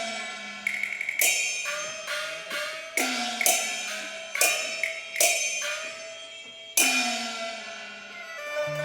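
Cantonese opera percussion ensemble playing a gong-and-drum passage: about a dozen sharp strokes in an uneven rhythm, each ringing on with a pitch that sags just after the strike. A sustained melodic instrument comes in near the end.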